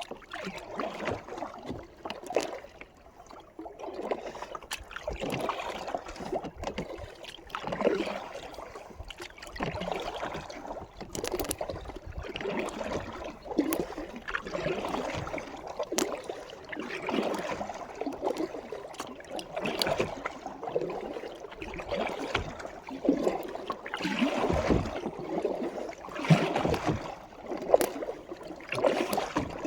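Kayak paddle strokes in the water: splashing and gurgling that swells about once every two seconds, with small knocks and drips between strokes.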